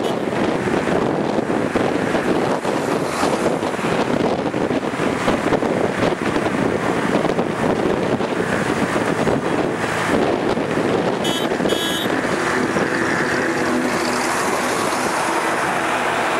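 A moving train heard from on board: a dense rumble of running gear and rushing air on the microphone. Two brief high squeaks come about eleven and a half seconds in, and the noise turns steadier with a low hum near the end.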